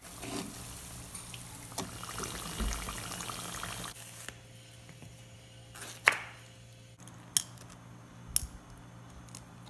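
Saba banana pieces sizzling in hot oil in a frying pan, a steady hiss that stops suddenly about four seconds in. After that come a few sharp clicks and taps of utensils, a ringing tap about six seconds in, and clicks of a fork on a plate near the end.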